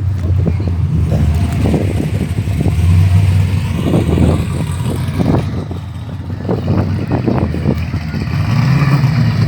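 A car engine idling, a steady low rumble with an uneven pulse.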